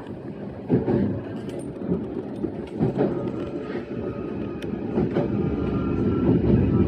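E131-series electric train running along the track, heard from inside the front car: a steady low rumble with wheel knocks over rail joints about every two seconds, growing a little louder near the end.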